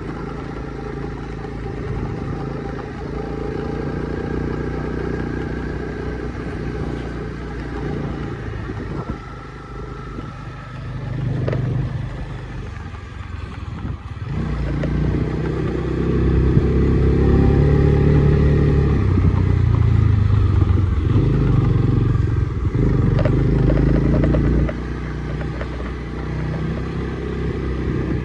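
Honda CB300R's single-cylinder engine running on the move, its pitch rising and falling with the throttle. It grows louder and revs higher about halfway through, then drops back sharply near the end.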